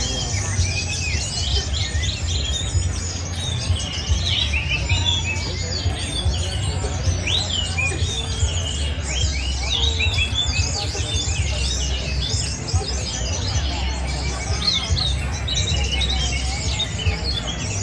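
Many caged songbirds singing at once in a dense, unbroken chorus of quick chirps, trills and whistles, over a steady low hum.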